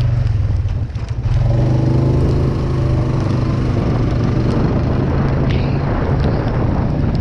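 Small off-road vehicle engine running steadily under throttle in mud. It eases off briefly about a second in, then picks back up.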